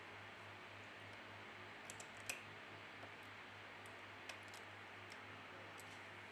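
A few faint, scattered clicks and taps as small tools and plastic phone parts are handled during disassembly, the clearest one about two seconds in, over a low steady hum.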